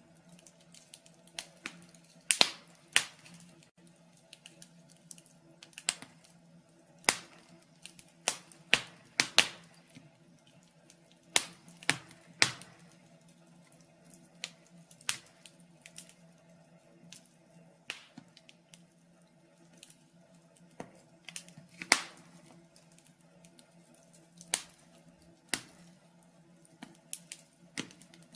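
Wood fire burning in a fireplace, crackling with irregular sharp pops and snaps, one or two a second, some much louder than others, over a faint steady hum.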